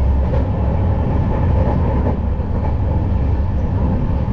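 Passenger train running, a steady low rumble of the coach on the rails.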